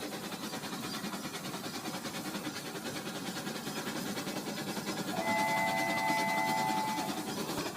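Rail King remote-control toy train running on its track, a steady fast rattle of the small motor and wheels that slowly grows louder. About five seconds in, a steady electronic horn tone sounds for about two seconds.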